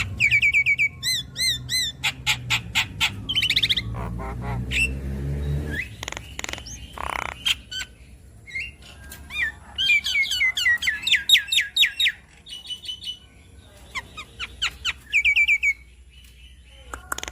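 Javan myna singing, a varied run of chirps, fast repeated note series, sharp clicks and whistled notes, with a low hum underneath for about the first six seconds.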